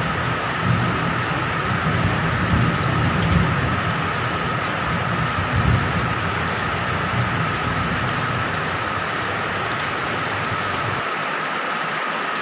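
Steady heavy rain with low, rolling thunder rumble that cuts off suddenly near the end. A constant faint high tone runs under the rain.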